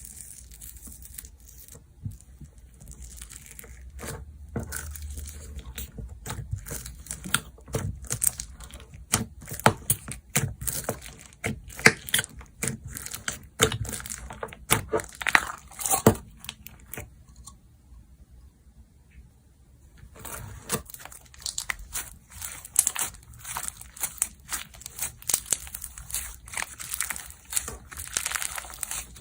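Slime being squished and stretched by hand, giving rapid runs of crackling pops and clicks, with a quieter gap of a few seconds a little past halfway.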